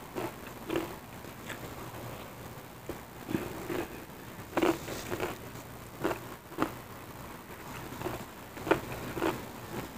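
Close-up eating sounds from sate padang with cassava crackers: soft chewing broken by irregular short crunches and clicks.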